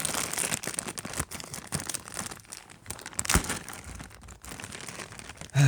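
Taped puzzle-box packaging being torn and crinkled open by hand: irregular crackling and tearing, with a sharp snap about three and a half seconds in.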